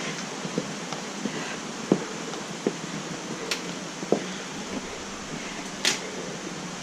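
Irregular footsteps and light knocks of hikers walking a rocky mountain trail, over a steady rushing background noise.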